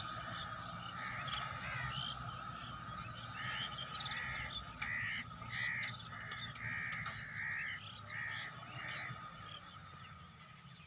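A crow cawing over and over, about a dozen short caws roughly half a second apart, which stop near the end. A low steady rumble and a faint steady whine run underneath.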